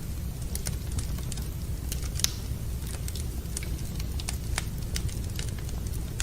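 Wood fire burning in a fireplace: irregular sharp crackles and pops over a steady low rumble, with the loudest pop a little over two seconds in.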